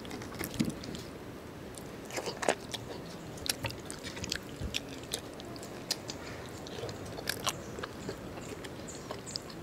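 Close-miked eating sounds: a man chewing braised lechon paksiw pork and rice with wet, irregular smacks and clicks of the mouth, along with his fingers squishing and mixing the saucy rice on the plate.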